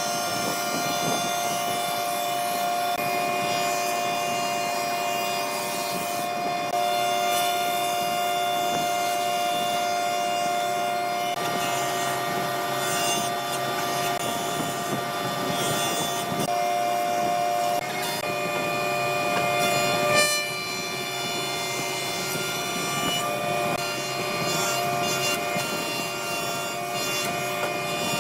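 Woodworking power machine running with a steady whine as it cuts wood. Its tone shifts several times, with a brief louder moment about twenty seconds in.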